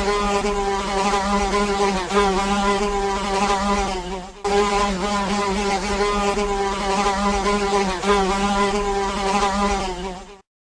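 A housefly buzzing in flight: a steady, slightly wavering drone, broken briefly about four seconds in and cut off abruptly near the end.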